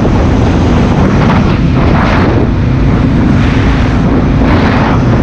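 2016 Honda Africa Twin CRF1000L's parallel-twin engine running steadily under way, heard through the rider's helmet, with wind noise on the GoPro microphone swelling and fading every second or so.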